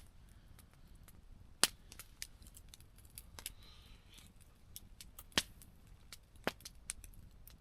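Campfire crackling: burning wood giving off irregular sharp pops and snaps, a few louder ones standing out among smaller crackles.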